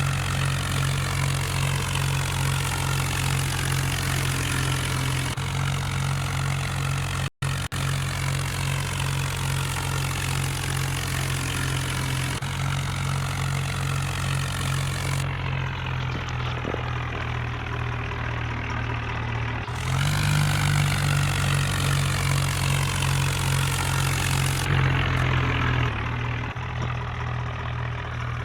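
Tractor engine running steadily at a low, even speed, in several spliced stretches with abrupt jumps and a brief dropout about seven seconds in.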